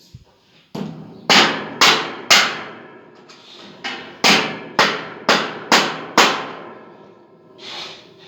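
Hammer blows: a run of three strikes, then after a short pause a run of five, about two a second, each with a short ring.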